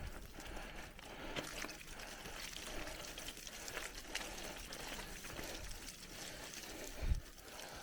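Mountain bike rolling along a rough forest trail: tyres crunching over dirt and gravel with many small clicks and rattles, and a single low thump about seven seconds in.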